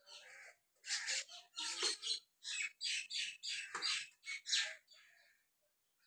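Birds calling in a quick series of short chirping calls, about two or three a second, starting about a second in and stopping near the end.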